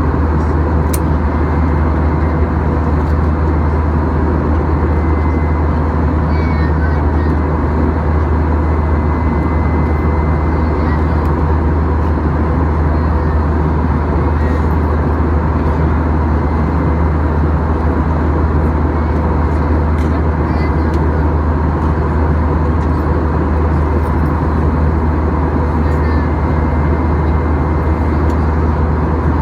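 Steady drone of a Boeing 737-800 with its CFM56 engines, a low hum under an even rush of noise.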